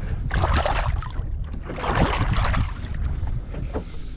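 Wind buffeting the microphone on a small boat, a constant low rumble that swells into two loud gusts, about half a second in and again about two seconds in.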